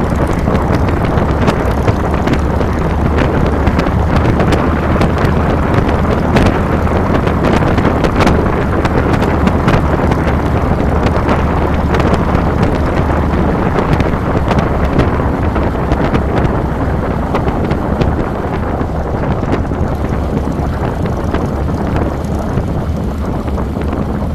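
A 2007 Harley-Davidson Fat Boy's air-cooled Twin Cam 96 V-twin running steadily under way, with wind buffeting the handlebar-mounted camera's microphone.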